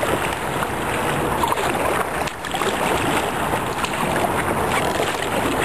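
Choppy, turbulent river water rushing and splashing around a kayak in the standing waves below a bridge.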